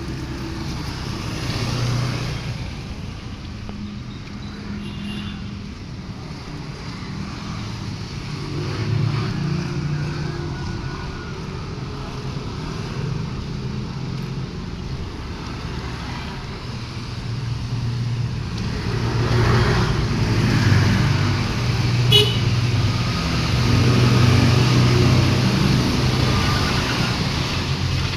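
Vehicle engine and road noise while driving in traffic, the engine note rising and falling; it grows louder about two-thirds of the way through, with a single sharp click shortly after.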